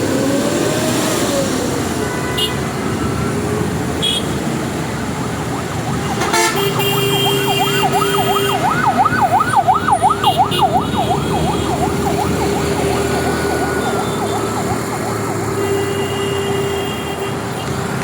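A siren on a passing vehicle, a fast yelping wail that rises and falls about four to five times a second, starting about six seconds in and stopping about five seconds later, over steady road traffic noise with a held tone that carries on near the end.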